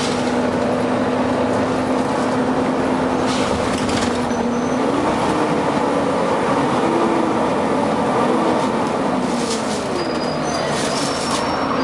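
Volvo B9TL bus running loudly, its engine and cooling-fan drone holding a steady pitch and then rising and wavering about halfway through. There are short air hisses about three seconds in and several near the end, with faint high squeals near the end.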